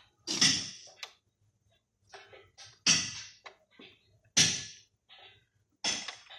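Hand tools and engine parts clanking during work on a BMW M54 intake: four sharp knocks about a second and a half apart, each fading quickly, with softer clicks between.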